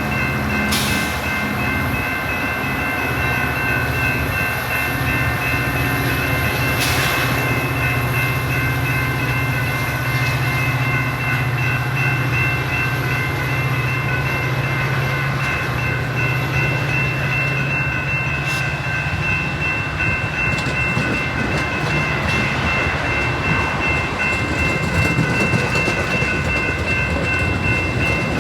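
Metra commuter train with its diesel locomotive running at the station: a steady mechanical din with a constant high whine above it. The low engine drone fades about two-thirds of the way through.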